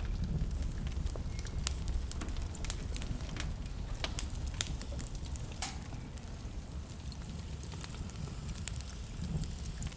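Wood fire burning in a fireplace: a steady low rumble with frequent irregular sharp crackles and pops, a few louder snaps around the middle.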